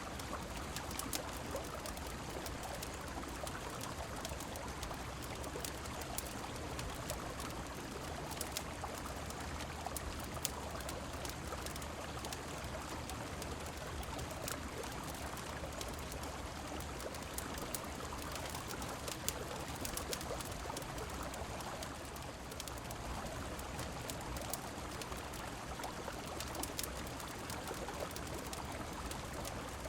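Steady rush of river water and rain, mixed with a crackling wood fire: an even watery hiss with sharp pops scattered throughout.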